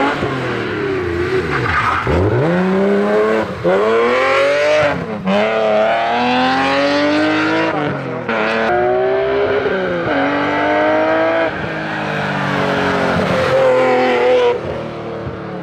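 Race car engine accelerating hard, its pitch climbing and dropping sharply at each upshift, five or six times.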